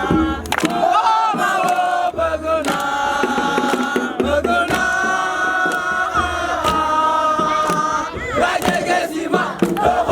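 A group of young voices chanting and singing together in held, wavering notes, with sharp hits scattered through it.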